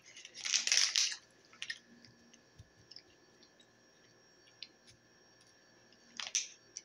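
Crunchy oats-and-honey granola bar being chewed: a crunchy burst about half a second in, a few small clicks, and another short crunch near the end.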